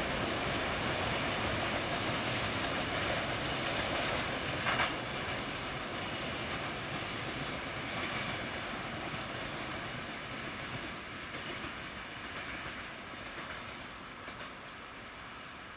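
Train hauled by a 2TE116 diesel locomotive rolling along the track, its running noise fading steadily as it moves away, with one sharp clank about five seconds in.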